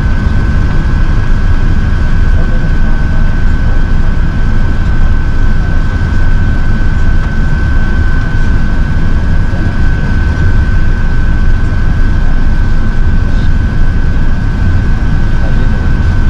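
Airbus A380 cabin noise heard from a passenger seat: a loud, steady rumble of the Rolls-Royce Trent 900 engines and rushing air, with a steady high whine over it.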